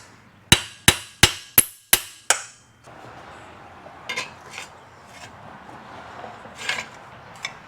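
Six quick hammer blows on metal, about three a second, each ringing briefly, then a few lighter knocks, as a seized top gland on a hydraulic cylinder is worked back and forth.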